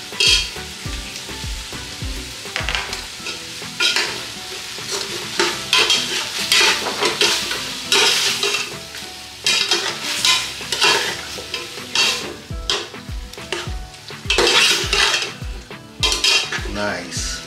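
Chicken frying and sizzling in a pot while it is stirred, a utensil scraping through it every second or two as a spoonful of tomato paste is worked in.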